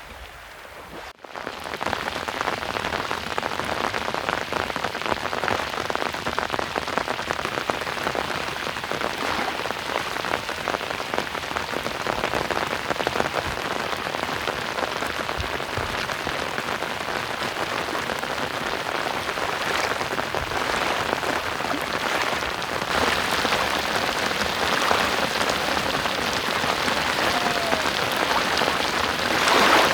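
Steady rain falling, a dense hiss of many small drops striking surfaces, starting abruptly about a second in.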